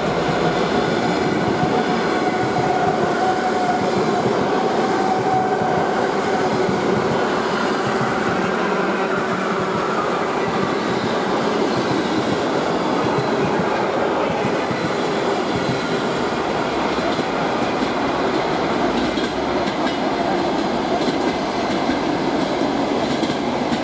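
A train passing close by at speed, its wheels clattering steadily over the rail joints with a continuous rumble and some whine.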